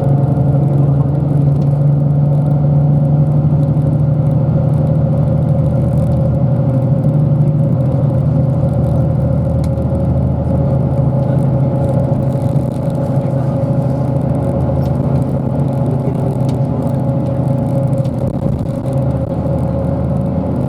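Bus rapid transit bus running, heard from inside the passenger cabin: a steady engine hum with road noise, easing off slightly partway through.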